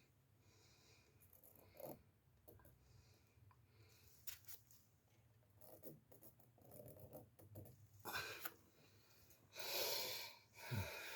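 Near silence with a faint low hum and scattered soft ticks and rustles, then a short breathy puff of air about ten seconds in.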